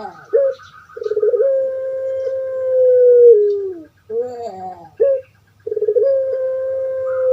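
Puter pelung (Barbary dove) cooing: short bending notes, then a long drawn-out coo held on one pitch that drops at its end, twice in a row. A steady low hum runs underneath.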